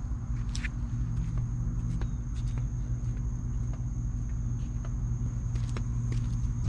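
A steady low mechanical hum, with a few light clicks and a faint steady high-pitched tone.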